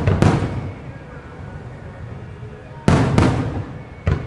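Aerial firework shells bursting in a rapid-fire starmine of No. 5 shells. One loud bang comes just after the start, then three more about three to four seconds in, each trailing off in echo.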